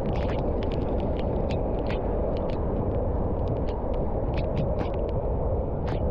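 Steady rushing wind noise on the microphone of a bicycle riding at road speed, with scattered sharp clicks and ticks through it.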